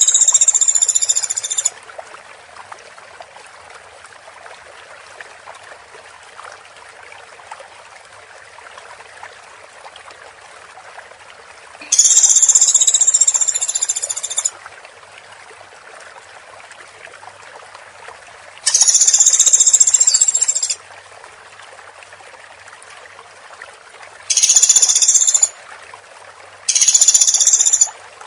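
Woodpecker giving rapid, high-pitched rattling calls in five bursts of one to two and a half seconds each, several seconds apart, over a steady background hiss.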